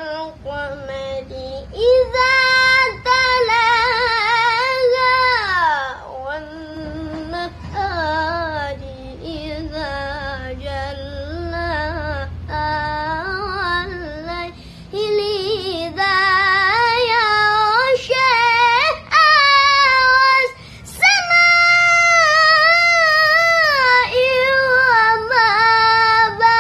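A boy's high voice reciting the Qur'an in melodic tilawah style, drawing out long, ornamented notes whose pitch wavers and bends. There is a short break for breath about three-quarters of the way through.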